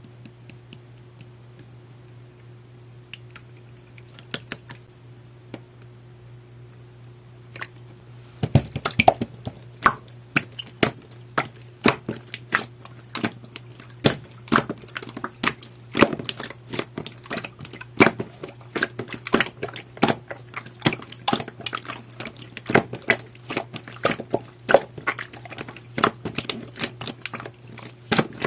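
Jelly-textured slime being squeezed and pressed by hand, giving a dense run of sticky clicks and pops that starts about eight seconds in, after a quieter stretch with only a few clicks. A low steady hum lies underneath.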